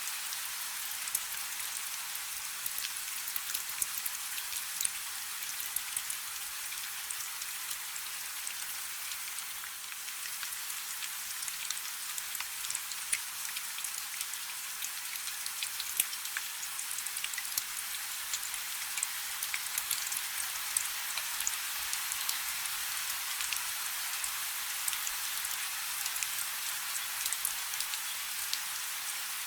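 Steady rain falling on a river: an even hiss, dotted with many sharp drop ticks throughout.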